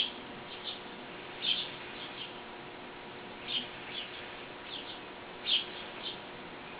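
A small bird chirping, short high chirps, mostly in pairs, every second or two, over a faint steady hum.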